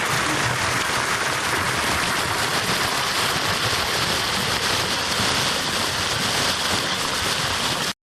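Small woodland waterfall splashing into a creek pool: a steady, even rush of falling water that cuts off abruptly near the end.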